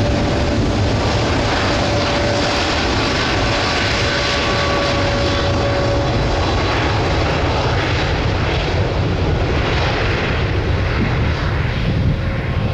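Boeing 787-8 airliner's jet engines at takeoff power: a loud, steady rumble with a few faint steady tones riding over it.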